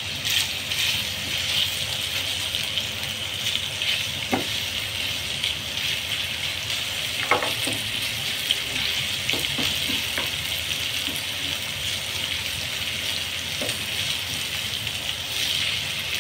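Chicken tikka pieces sizzling steadily as they fry in oil in a frying pan, with a few short knocks and scrapes of a spatula stirring them.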